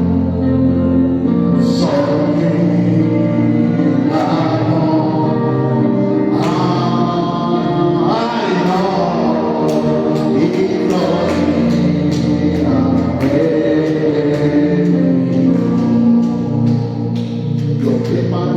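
Gospel music in church: a choir or congregation singing over a band with steady drum strokes.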